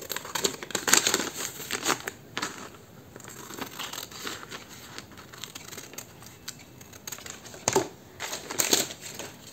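Paper lunch sack crinkling and rustling as it is handled, in irregular spells that are busiest in the first two seconds and again near the end.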